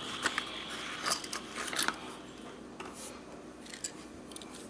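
Handling of a Tomica die-cast toy car and its small cardboard box: irregular sharp clicks and crinkles, busiest in the first couple of seconds and thinning out after.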